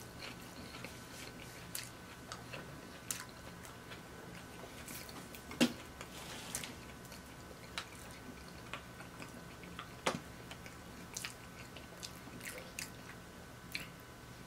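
Close-miked chewing and biting of fried food, with scattered wet mouth clicks, two of them louder about five and a half and ten seconds in. In the second half a plastic squeeze bottle of sauce is squeezed over the food.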